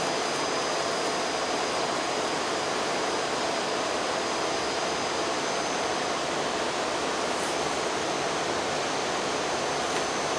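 Steady rushing noise with a faint, thin high whine, from a train standing idle at the platform.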